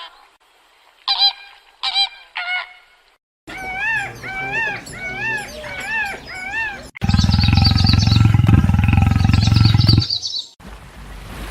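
Honking, goose-like bird calls in several cut-together clips: three short calls, then a run of about five rising-and-falling calls, then calls over a loud low rumble that cuts off about ten seconds in.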